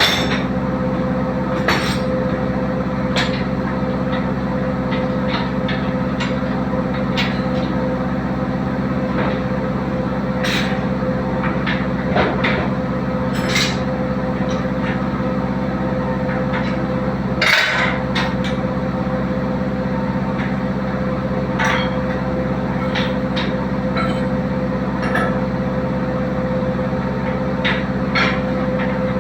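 A steady mechanical drone, like an engine running at constant speed, with scattered metallic clicks and knocks over it. One louder knock comes a little past halfway through.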